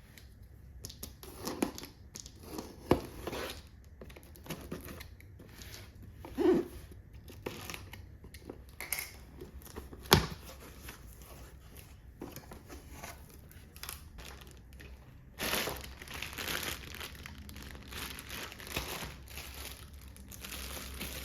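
Packaging being handled: crinkling and tearing, with scattered sharp clicks and knocks. About fifteen seconds in comes a longer, louder stretch of rustling.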